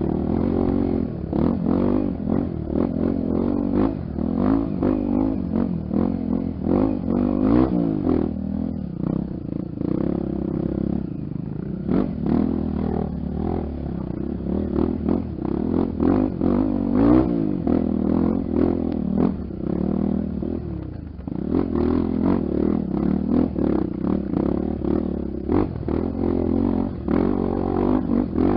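Honda XR 250 Tornado single-cylinder four-stroke trail bike being ridden over rough ground. The engine note rises and falls continually, with frequent short knocks and clatter mixed in.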